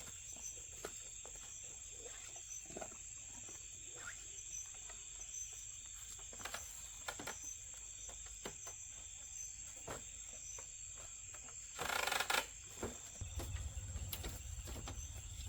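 Insects chirring in one steady high tone, with scattered soft knocks. A short, loud rustle comes about twelve seconds in, followed by a low rumble.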